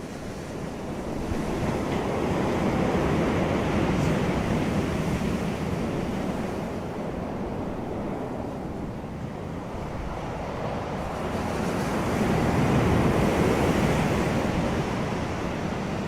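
Wind blowing over the microphone: a steady rush with no tones or clicks that swells twice, a couple of seconds in and again about twelve seconds in.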